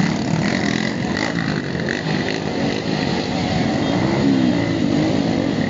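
Many motorcycle engines running together in a dense, steady mix, with one engine's pitch rising and falling about four seconds in.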